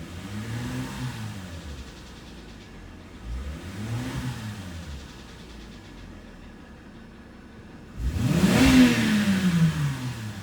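Mercedes M272 V6 engine blipped three times from idle, the third rev the highest and longest. The owner takes the engine's knocking to come from a scratched cylinder wall.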